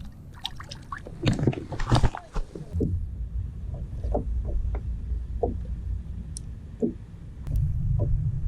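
Knocks and clicks of gear being handled aboard a kayak, thickest in the first three seconds, then scattered light taps over a steady low rumble that grows louder near the end.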